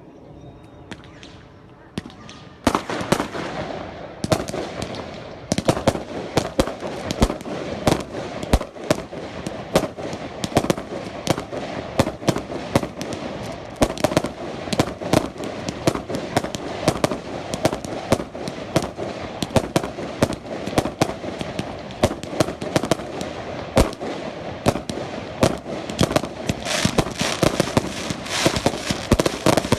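Fireworks going off in a dense, rapid volley of sharp bangs over continuous crackling. It starts about two and a half seconds in and thickens near the end.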